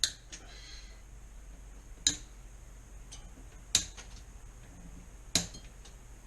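Cutters snipping the excess tails off plastic zip ties: four sharp snaps about a second and a half to two seconds apart.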